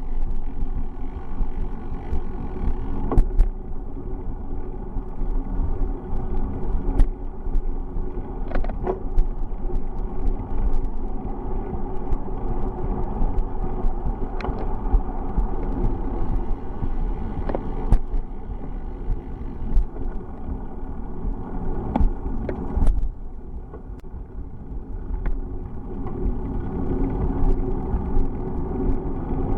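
Bicycle being ridden: a steady rumble and hum of tyres on the road, with scattered sharp clicks and rattles. It dips quieter briefly about two-thirds through.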